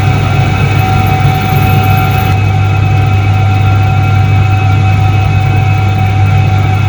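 1978 Soviet Iset-3 washing machine running steadily: a constant low electric-motor hum with a steady whine above it.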